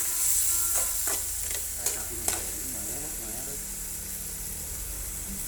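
Coconut weevil grubs frying in a pan, a steady sizzle, with a utensil stirring and knocking sharply against the pan a few times in the first half.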